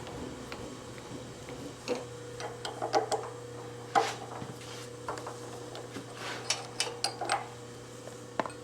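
Metal tools and parts being handled on a shop bench: irregular clinks and knocks, the sharpest about three and four seconds in and a quick run of them a little before the end, over a steady low hum.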